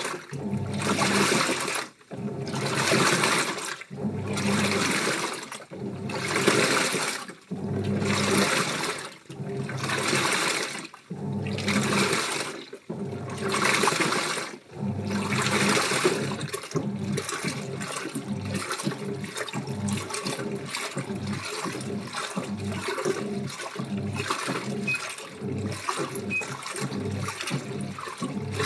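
Washing machine washing a load of shirts, the water sloshing with the drum's motion in surges about every 1.7 s. About 16 s in it changes to a faster, steadier churning of about two pulses a second.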